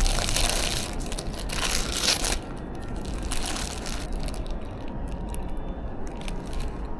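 Paper wrapper of a steamed pork bun crinkling and rustling close to the microphone. It starts suddenly and is loud for about two and a half seconds, then goes on as lighter scattered crinkles and clicks.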